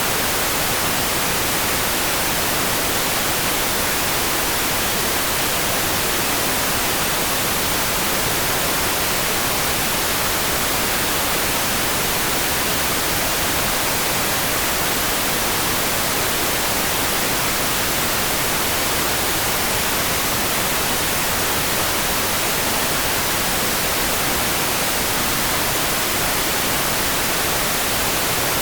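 Steady rain-sound hiss, even and unbroken like pink noise, with no separate drops, gusts or changes.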